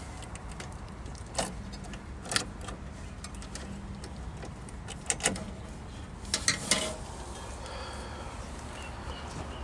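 Hands working inside the heat pump's cabinet: scattered clicks and knocks of handling parts and wiring, several in quick succession about two thirds of the way in, over a steady low hum.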